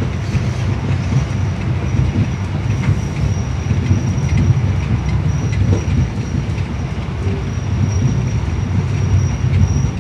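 Passenger train running at speed, heard from inside the carriage: a steady low rumble of the wheels on the rails, with a thin high whine above it.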